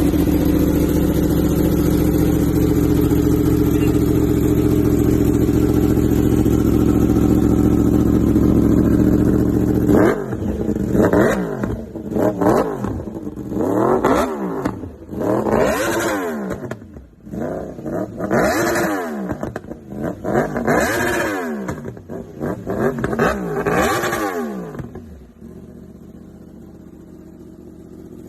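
Yamaha R1 inline-four sportbike engine and exhaust running at a steady, loud note for about ten seconds, then revved up and down about eight times. Near the end it settles back to a quieter idle.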